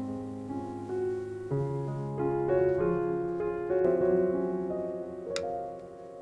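Gentle background piano music, slow notes and chords held over one another.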